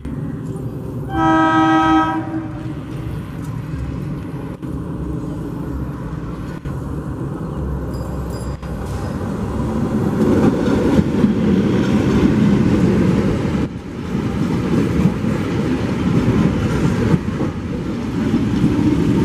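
Electric multiple unit (EMU) local train sounding one horn note, about a second long, just over a second in. Its running rumble grows louder from about ten seconds in as the train passes close by.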